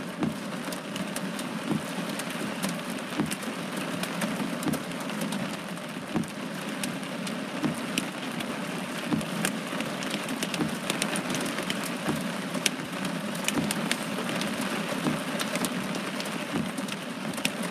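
Heavy rain beating on a car's roof and windows, heard from inside the car: a steady rush of water with many sharp individual drop impacts.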